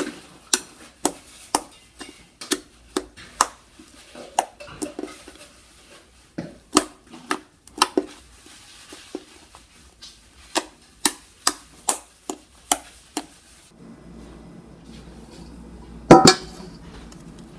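Hard containers and utensils clinking and knocking against each other and a tabletop, in a run of sharp irregular taps, often about two a second. A louder knock comes near the end.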